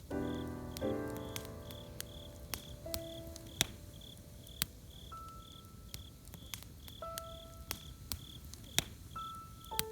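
Campfire crackling with sharp, irregular pops, under a cricket's steady, regular chirping. Soft instrumental music plays over it: a chord at the start, then a few sparse held notes.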